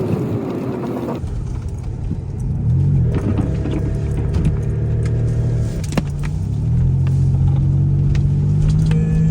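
Car engine running under the driver's foot, its pitch rising about 3 s in and again about 7 s in, then holding steady, with light clicks and rattles over it.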